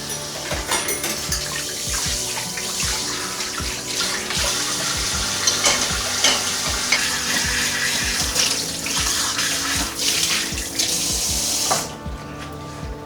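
Water running from a tap into a sink and splashing, shut off abruptly near the end. Soft background music plays underneath.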